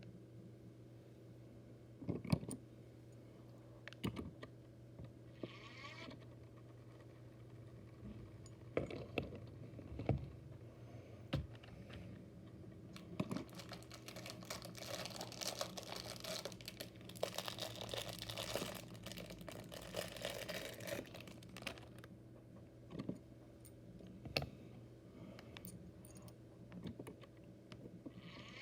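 Small diecast toy motorcycles clicking and knocking as they are handled and set down, with plastic bags crinkling for several seconds in the middle. A steady low hum runs underneath.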